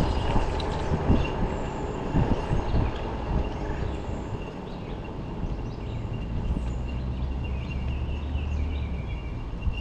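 Low, uneven rumble of wind on the microphone, under a thin, steady high-pitched tone and scattered short high chirps.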